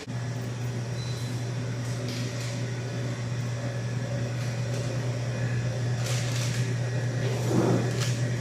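Steady low electric motor hum from an appliance switched on suddenly, with a few light knocks near the end.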